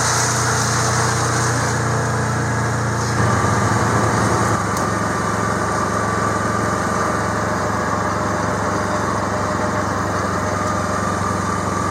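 Engine of a field-spraying rig running steadily under way, with a slight change in its tone about three seconds in.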